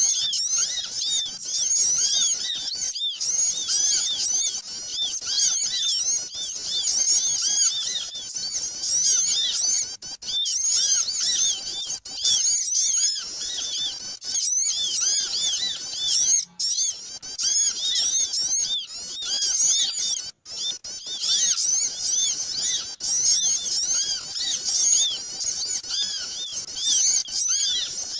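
Dense chorus of small birds chirping and twittering all at once, many rapid high arched chirps overlapping, with a few brief drop-outs. A busy bird-lure (pikat) call used to draw small birds in.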